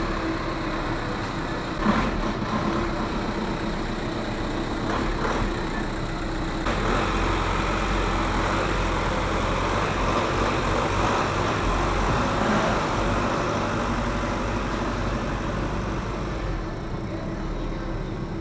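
Audi A3 hatchback's engine running as the car pulls slowly away, its sound swelling in the middle and then fading as the car moves off. A single knock about two seconds in.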